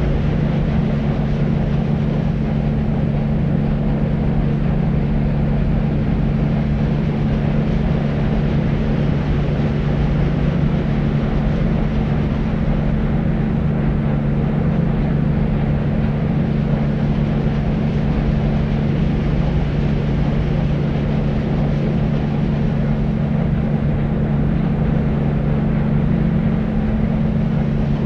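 Deep white noise for sleep: a steady, unchanging noise weighted toward the low end, with a low drone and little treble.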